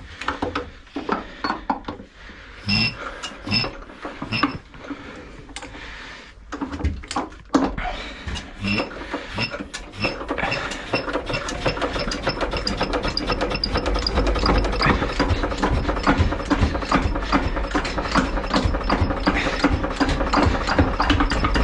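Antique Bernard Moteur single-cylinder diesel generator being cranked by hand: scattered clicks and knocks at first, then a quick, even clatter that speeds up and grows louder from about halfway as the flywheel spins up.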